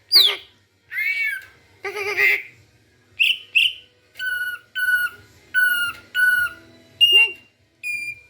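Young pet songbird calling in a quick string of short squawks and whistles, some gliding in pitch. In the middle comes a run of four matching whistled notes.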